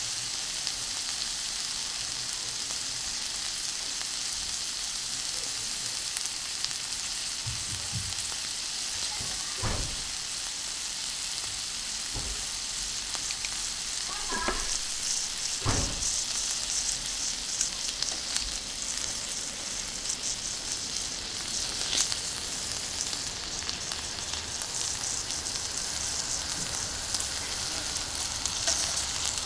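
Beef kalbi sizzling steadily on a hot iron griddle, with a constant crackling hiss. A few soft low thuds come midway through.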